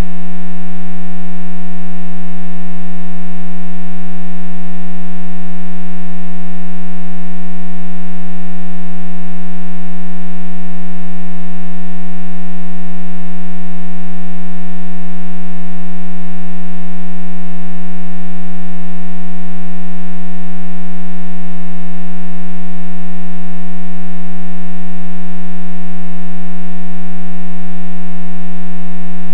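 A loud, steady low hum at one unchanging pitch with a string of overtones above it, over a faint hiss.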